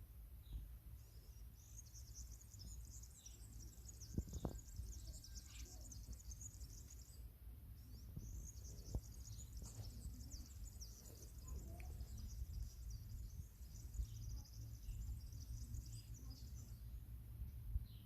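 Small birds chirping and twittering together in a busy, high-pitched chorus over a steady low rumble.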